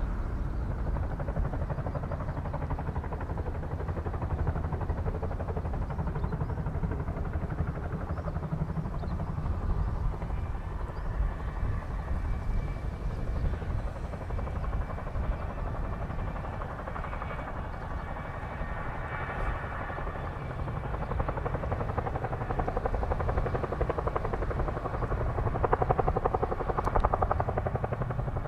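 CH-47 Chinook tandem-rotor helicopter flying in to land, its rotors beating in a fast steady chop with a faint turbine whine, getting louder near the end.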